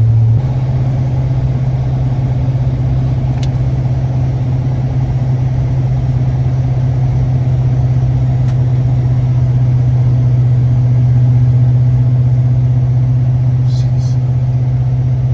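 Pickup truck driving, heard from inside the cab: a steady engine and road drone that steps up slightly in pitch about half a second in.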